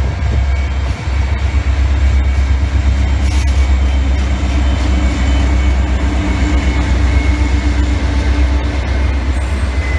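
Freight train passing close by: BNSF diesel locomotives running with a loud, steady deep rumble and engine drone, with the train rolling along the rails.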